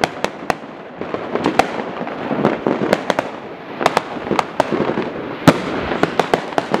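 Fireworks and firecrackers going off all around: a steady crackle broken by many irregular sharp bangs, the loudest about five and a half seconds in.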